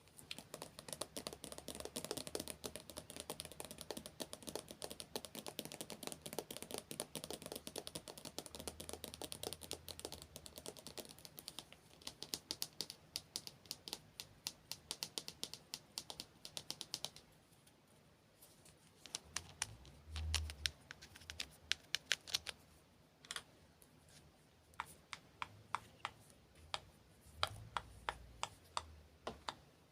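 Close-miked ASMR hand and mouth sounds: a dense run of rapid small clicks and taps, easing off about two-thirds of the way in to sparser single clicks a few times a second.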